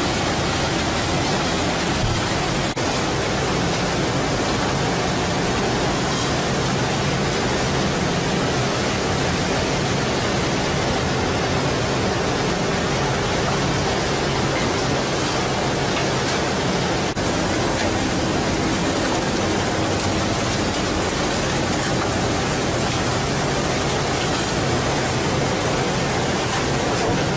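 Steady loud rushing noise with a faint low hum under it: a fishing boat under way, its engine running beneath wind and water noise.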